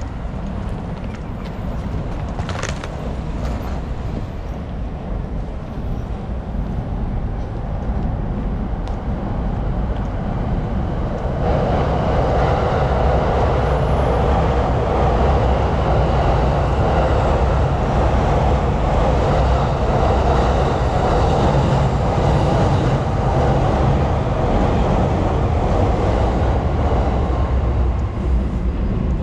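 Steady city street noise from passing vehicles. About eleven seconds in it gets louder and heavier and stays that way, as a large vehicle or train runs close by.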